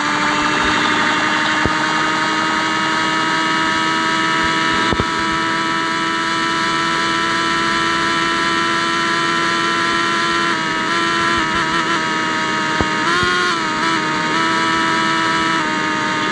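Yamaha XJ6's inline-four engine running steadily through a loud open exhaust pipe, with two short rises in pitch near the end from light throttle.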